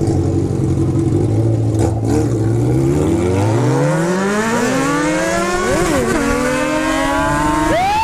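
Motorcycle engine running low and steady, then revving up in a long rising pitch from about three seconds in. The pitch drops briefly after about six seconds, climbs again, and jumps in a quick rev blip at the very end.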